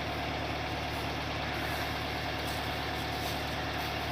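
Tractor engine and threshing machine running steadily together under load: an even, unchanging mechanical drone.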